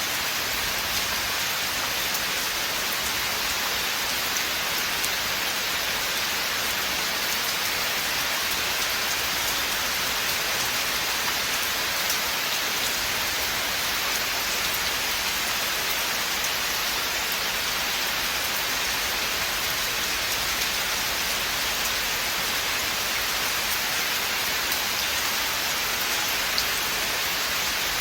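Steady rain falling on a forest, an even hiss with scattered drop ticks.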